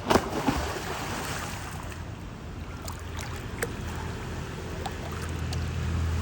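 A sharp splash of pool water right at the start, then smaller splashes and sloshing water, with a low rumble building near the end.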